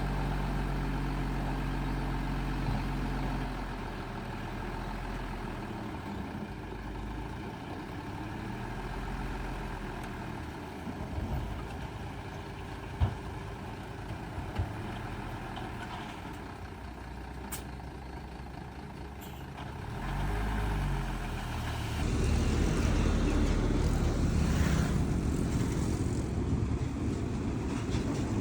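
Heavy diesel engines of earthmoving machinery running, idling steadily at first, then working harder and louder over the last quarter, with a few short knocks in the middle.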